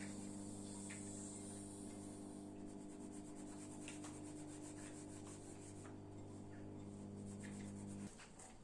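A steady low electric hum from an appliance motor or transformer, cutting off about eight seconds in. Light rubbing strokes run over it.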